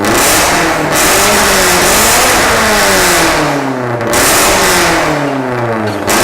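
Subaru BRZ's flat-four boxer engine and exhaust revving: three times the revs jump up loudly, then fall away over a second or two.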